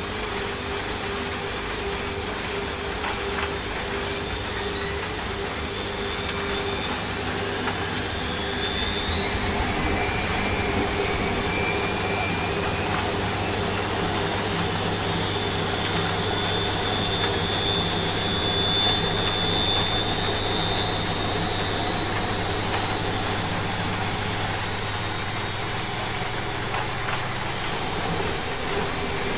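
Washing machine speeding up into its spin cycle: the motor's whine climbs in pitch for about fifteen seconds, then holds steady, over a low hum and a steady hiss of rain.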